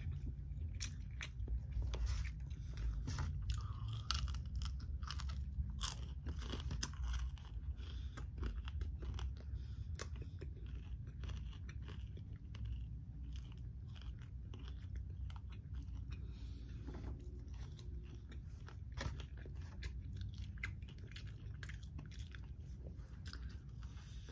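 Close-miked chewing and biting of crispy boneless fried chicken, with sharp crunches of the breading. The crunches come thickest in the first several seconds and thin out later.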